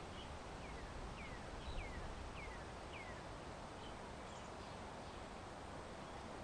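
A small songbird calls a run of five short, falling whistled notes, about one every half second, then a few faint chirps. Under it runs a steady low rumble.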